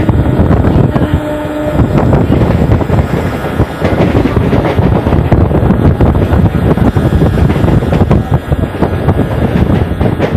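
Electric suburban local train running at speed, heard from its open doorway: the wheels rattle and clatter on the track while wind buffets the microphone.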